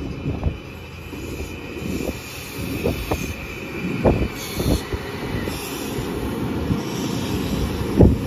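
Kawasaki M8 electric multiple-unit train passing close by, its wheels rumbling and knocking over the track joints. A high steady whine fades out about halfway through.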